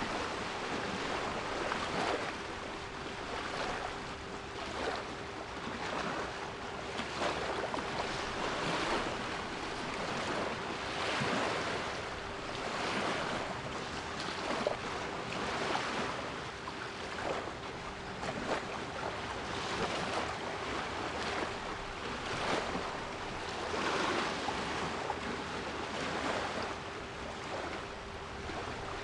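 Sea waves washing in repeated surges every couple of seconds, with a steady 396 Hz pure tone held underneath.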